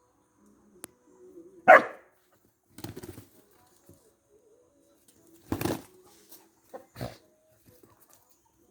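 A dog barking in short separate barks, about four over several seconds, the first the loudest, with a sharp click just before it.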